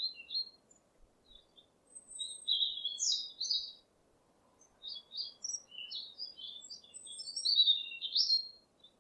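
A songbird singing: rapid, high chirping and twittering notes, with a few short calls at first and then two longer phrases, one about two seconds in and one from about five seconds in, ending suddenly near the end.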